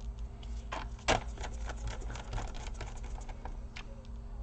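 Small, irregular clicks and taps of a hand screwdriver and screws against a laptop's plastic base as the screws are driven back in, with one louder click about a second in.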